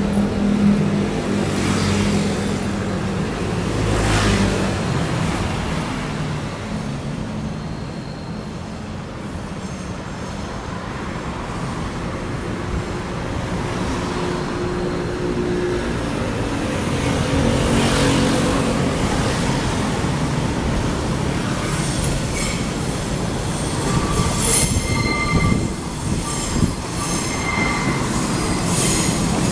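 Taiwan Railway local electric multiple-unit train pulling into the station over curved track, with the steady rumble of its wheels on the rails. Over the last several seconds, high wheel squeal breaks in and out as it takes the curve.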